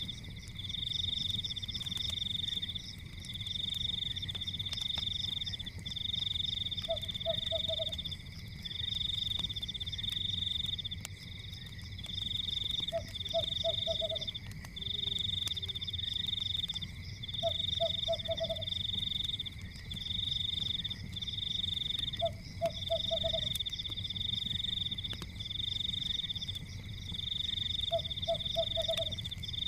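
Frogs calling in a high, pulsing trill, each run lasting a second or two with short gaps, with a lower call of three or four quick notes about every five seconds. Faint crackles of a wood fire sit underneath.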